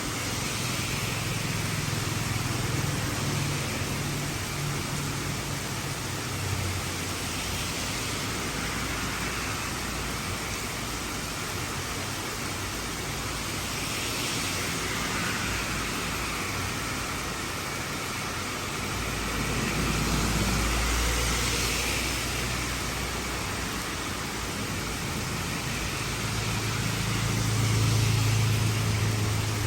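Heavy rain falling steadily, with motor vehicles passing: engine hum swells about two-thirds of the way in and again near the end.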